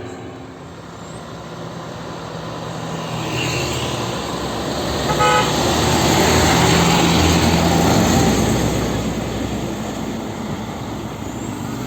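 A heavy road vehicle drives past, its engine and tyre noise swelling to a peak and then fading. A brief horn toot sounds about five seconds in.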